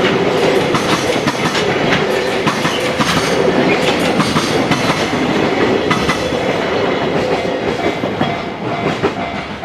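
Freight train wagons rolling past close by, wheels clacking steadily over rail joints, easing slightly near the end.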